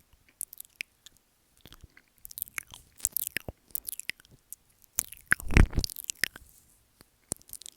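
Close-up mouth sounds on a microphone: scattered wet clicks and smacks of lips and tongue licking and nibbling at the mic. A louder, longer wet smack comes about five and a half seconds in.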